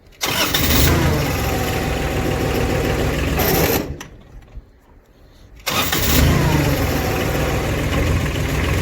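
Old mini dumper's small diesel engine started: it catches and runs for about three seconds, dies away to quiet, and is started again about two seconds later, catching and running steadily.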